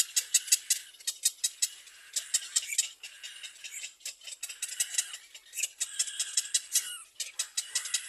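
Young birds peeping: rapid runs of short, high calls, several a second, in bursts with brief pauses.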